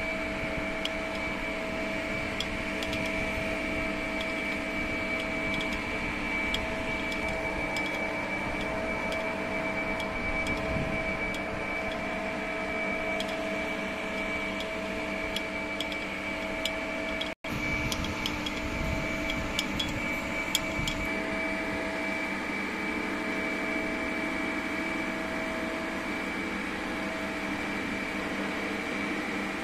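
Steady machine hum with a high, even whine and scattered faint clicks. It cuts out for an instant about seventeen seconds in.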